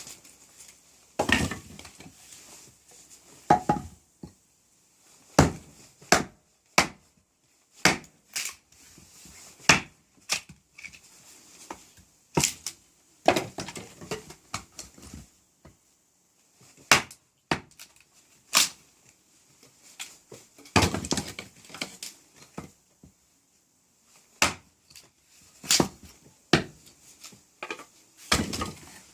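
Small hatchet tapping into small pieces of firewood, a series of sharp, irregularly spaced wooden knocks, with the crackle of the wood splitting apart after some of them.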